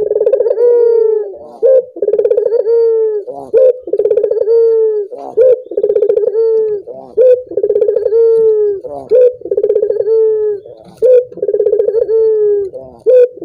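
Male puter (Barbary dove) cooing over and over: a low, slightly falling coo ended by a short sharp note, repeated about every two seconds, some seven times.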